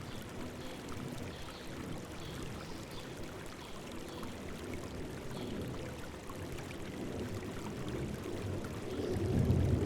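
River water rushing and babbling over rocks in a steady stream that swells louder near the end, with faint, repeated high bird chirps above it.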